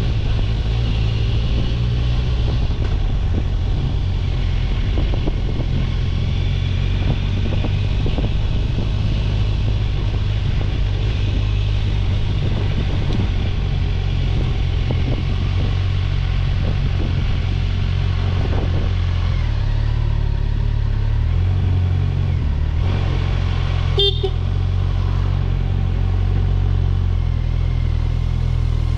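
Motorcycle engine, most likely the Kawasaki Ninja 1000SX's inline-four, running at a steady pace on the road with a constant low hum and a haze of road and wind noise. There is one short sharp click about 24 seconds in.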